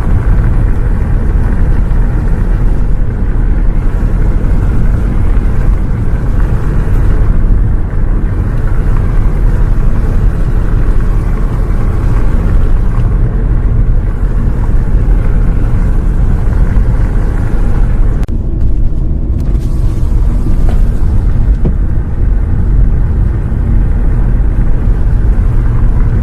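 Steady, loud low rumble of a bus on the move, engine and road noise heard from inside.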